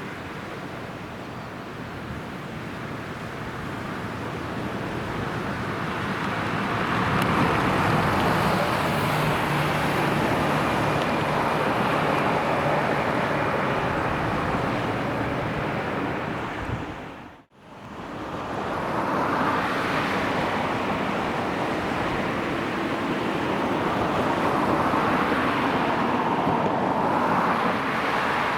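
Small bus driving on the road: a steady spread of tyre and engine noise with a low engine hum, swelling louder after a few seconds. The sound cuts out briefly about seventeen seconds in, then the road noise returns.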